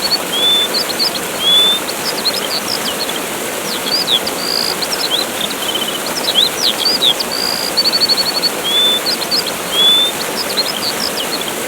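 Steady rush of a waterfall with birds chirping over it: quick rising and falling chirps, short held whistles and a brief trill. The bird calls repeat as a loop about every seven and a half seconds.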